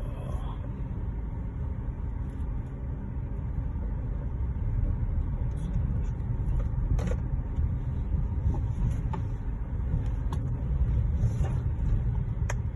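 Steady low rumble with a few sharp clicks scattered through it.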